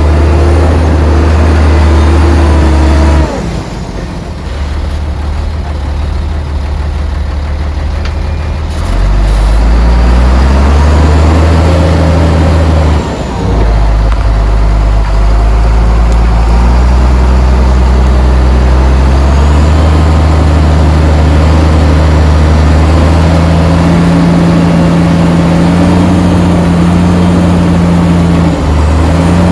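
Heavy diesel engine of earthmoving machinery working under load, its speed changing in steps. It drops sharply about three seconds in and revs back up around nine seconds. After a brief dip near thirteen seconds it climbs higher in stages through the second half.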